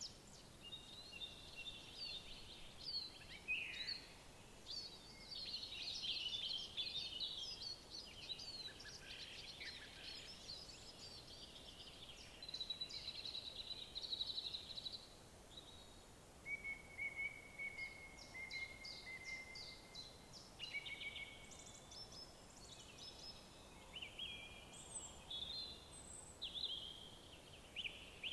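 Several woodland songbirds singing at once, a run of overlapping chirps, whistled phrases and rapid trills, over a faint steady background hiss.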